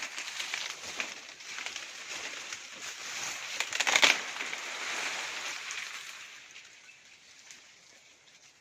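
Bird wings flapping and rustling, with many short sharp ticks, loudest about four seconds in, then dying away over the last couple of seconds.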